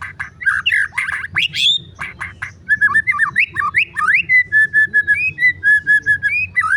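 White-rumped shama (murai batu) in full song: a varied run of loud whistled sweeps, harsh squawks and clicks, then from about halfway a rapid string of short, even whistled notes, about five a second.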